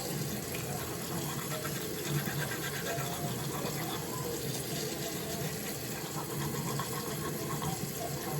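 Teeth being brushed with a toothbrush: a steady, even brushing sound with no breaks.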